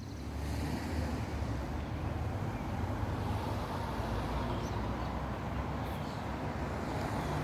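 Outdoor city park ambience: a steady low rumble of road traffic, with a few faint bird chirps now and then.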